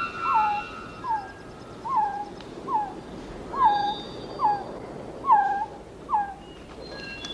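A forest bird calling over and over, a short note that rises and then drops, about once a second, eight times before it stops; fainter whistles and chirps of other birds sound around it.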